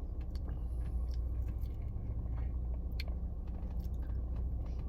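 A person chewing a mouthful of Blizzard ice cream with cookie pieces, with soft mouth sounds and scattered small clicks, over a steady low hum.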